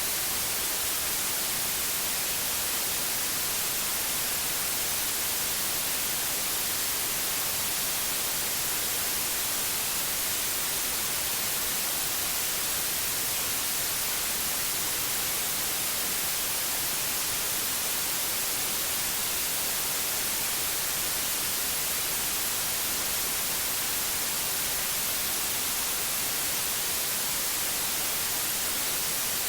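Steady synthetic white noise: an even, unchanging hiss, strongest in the high treble.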